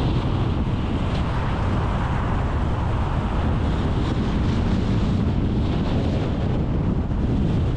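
A moving car's steady rush of road and wind noise, with gusty wind buffeting the microphone as a flickering low rumble.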